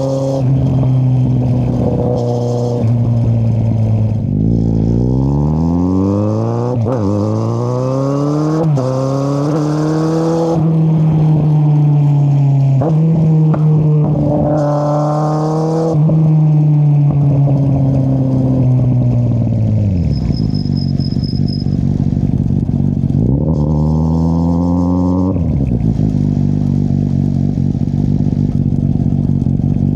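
2013 Kawasaki Z800's inline-four engine through an Akrapovic exhaust with its dB killer removed, under way: the revs climb through several quick upshifts, hold steady at cruise with a brief rise in the middle, drop away as the bike slows about two-thirds through, then pick up again.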